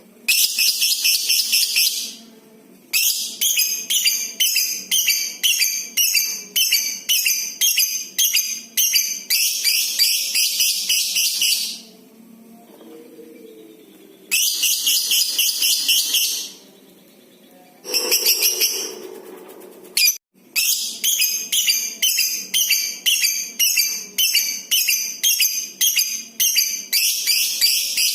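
Lovebird giving its long 'ngekek' chatter: long runs of rapid, high-pitched scratchy calls that pulse a little under twice a second, broken by a couple of short pauses.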